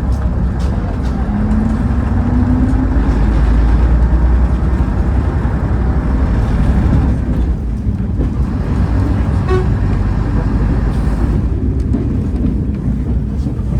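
Diesel railcar running on the line, a loud steady low rumble of engine and wheels, its engine note rising in the first few seconds as it gathers speed.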